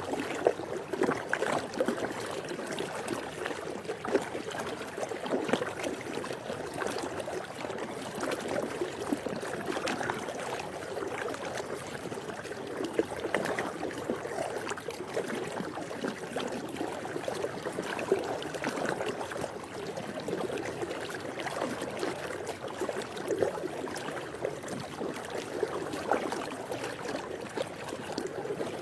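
Swimming pool water lapping and splashing steadily, with many small irregular splashes and trickles.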